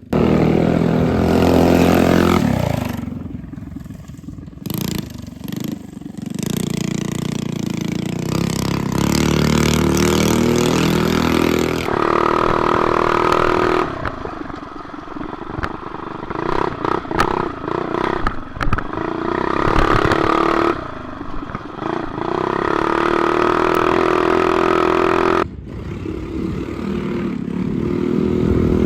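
Mini bike's modified single-cylinder four-stroke engine running hard through a lap, its pitch rising and falling again and again with the throttle. The sound changes abruptly several times.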